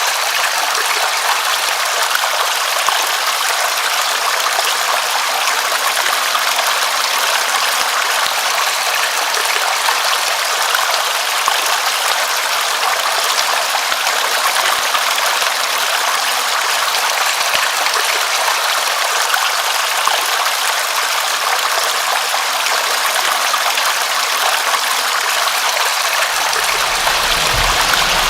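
Steady rain, a continuous even hiss of falling water. A low rumble comes in near the end.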